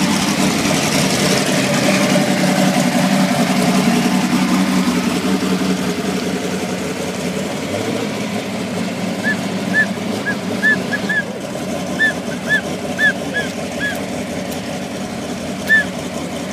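Supercharged Camaro drag car's engine idling steadily as it rolls past close by and then sits at the start line; it is louder for the first few seconds and settles quieter after that. Short, high chirps sound over the idle in the second half.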